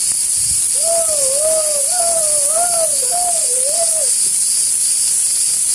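A steady high hiss throughout, with a person humming a wavering, rising-and-falling tune for about three seconds from about a second in.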